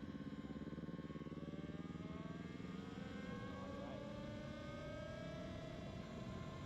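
A motor running steadily with a low rumble, its pitch rising over a few seconds about two seconds in and then holding.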